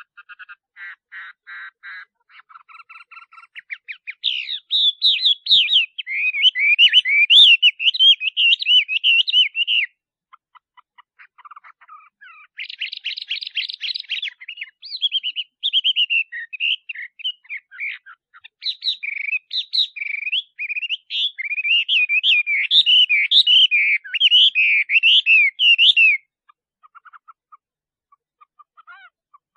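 Male Chinese hwamei singing: rapid, varied whistled phrases that bend up and down in pitch. The song comes in two long, loud bouts, the first a few seconds in and the second from about the middle, with a short break and softer notes between and after.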